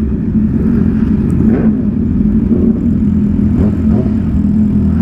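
Yamaha R6 inline-four engine running at a steady cruising speed, its pitch holding level with no revving, over a low rumble of wind and road noise.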